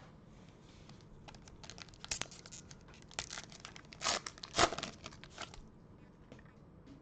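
Wrapper of a football trading-card pack being torn open and crinkled: a run of crackles, with the loudest rips a little past the middle.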